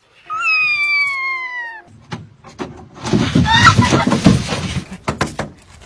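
A cat meows once, a long call that slowly falls in pitch. About three seconds in comes a louder, noisier stretch with a short wavering cry in it, then a few clicks.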